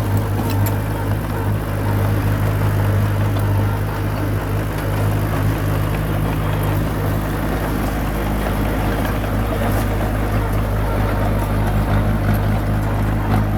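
Komatsu bulldozer's diesel engine running steadily under work, with a strong, even low hum.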